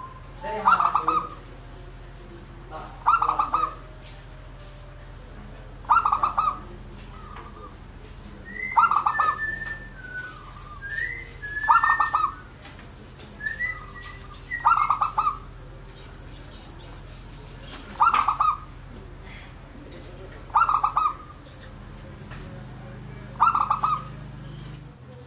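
Local zebra dove (perkutut) singing its rhythmic cooing song: short bursts of rapid cooing notes, repeated about every three seconds, nine times. A few higher chirps come in the middle, over a steady low hum.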